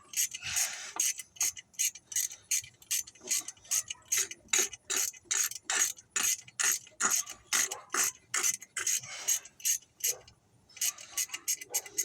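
Hand ratchet wrench clicking in quick, even strokes, about three to four clicks a second, working a fastener on a pickup truck engine. The clicking stops briefly near the end, then starts again.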